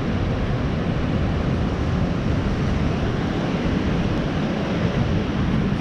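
Steady surf noise from large waves breaking on the beach, mixed with wind rumbling on the microphone.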